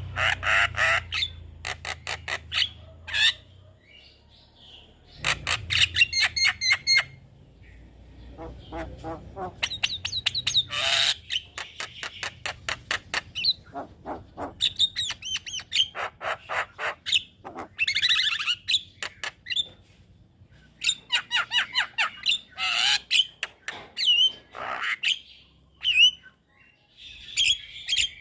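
Javan myna (jalak kebo) singing: bursts of rapid chattering, clicking notes mixed with harsh squawks and short whistles, separated by brief pauses.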